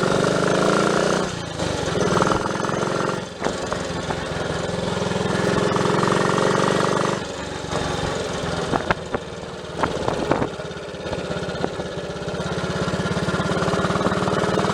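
Triumph Tiger Cub's 199 cc single-cylinder four-stroke engine running on the road, its pitch rising and falling with the throttle and dropping briefly several times at gear changes. This is the test ride after its loose distributor, which had let the timing wander and caused a misfire, was secured.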